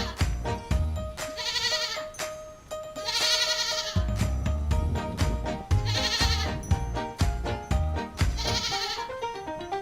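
Background music with animal bleats laid over it: five wavering bleats, each under a second long, spaced a couple of seconds apart.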